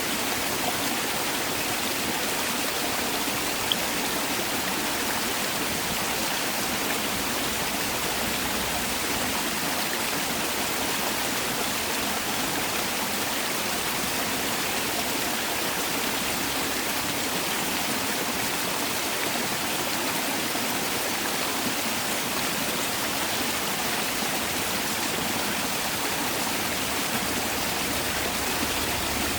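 Mountain valley stream rushing and splashing over rocks, a steady full water sound without pauses.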